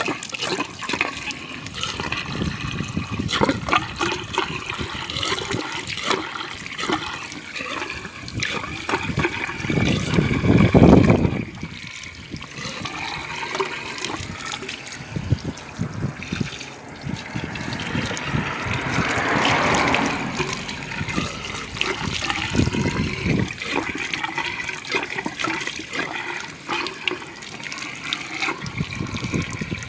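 Water splashing and churning in an irregular rush, with a louder, deeper surge about ten seconds in and another swell around twenty seconds.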